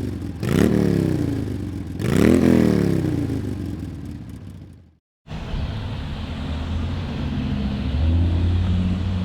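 Motorcycle engine revved three times, each rev climbing sharply and then winding down. After a short break about five seconds in, a motorcycle engine runs steadily and swells a little near the end.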